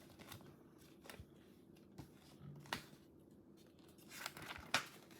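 Faint rustling and a few light clicks of a paper picture book being handled, as when a page is turned, with the two strongest rustles about two and a half seconds and four and a half seconds in.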